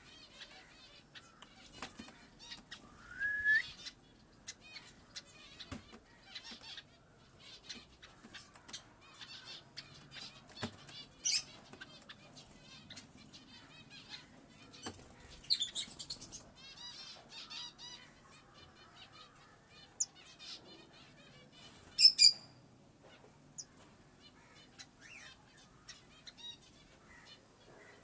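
Pet birds chirping continually, with a rising whistle a few seconds in and sharp, loud calls now and then; the loudest are two shrill calls close together near the end.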